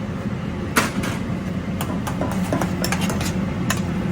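Utensil stirring vegetables in a hot pan, with a string of sharp clinks and knocks against the pan starting about a second in, over a steady low hum.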